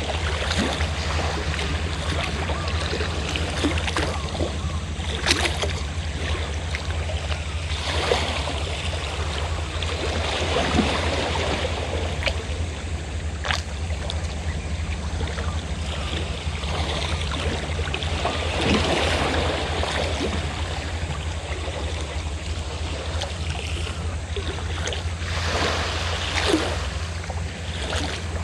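Sea waves washing in, swelling every few seconds, over the steady low hum of a fishing boat's engine running.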